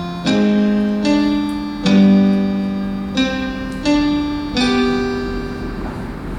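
Slow instrumental accompaniment to a ballad: sustained chords and single notes struck about once a second and left to ring, with no voice.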